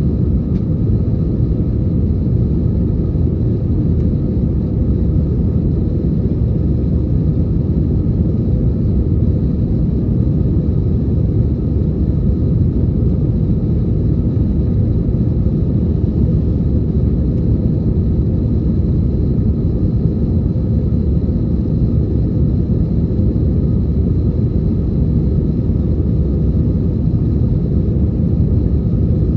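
Steady cabin noise of an Airbus A321 in flight: a loud, even rumble of engines and airflow, with a faint high whine above it.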